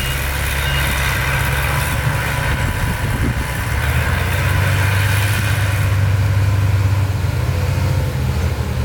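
Heavy construction vehicle engine running steadily, a low drone that swells a little past the middle.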